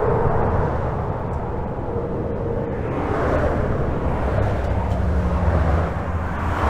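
Steady rush of highway traffic heard from under a bridge, with deep rumble and tyre noise swelling and fading as vehicles pass overhead or alongside.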